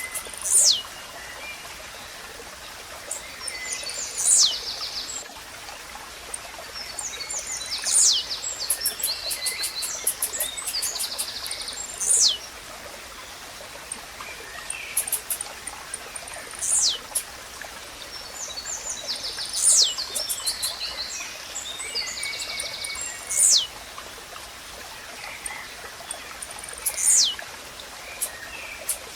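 Blue-black grassquit (tiziu) repeating its short, steeply falling song note about eight times, roughly every four seconds, over a steady running stream. Other small birds twitter with quick rapid notes between the calls.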